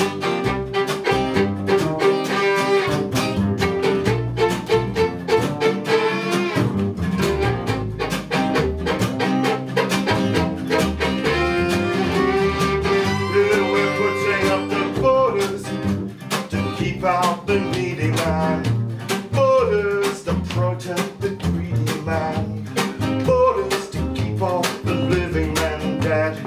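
Instrumental break of an acoustic folk song: strummed acoustic guitar keeping a steady rhythm under a bowed string instrument playing a melody with held notes and sliding pitches.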